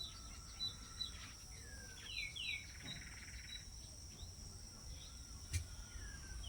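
Birds chirping: scattered short falling chirps and a brief buzzy call over a steady high background tone, with one sharp click about five and a half seconds in.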